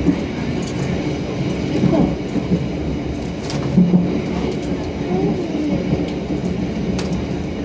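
Passenger train running along the track, heard from the rear of its last carriage: a steady rumble with scattered clicks and short squeaks.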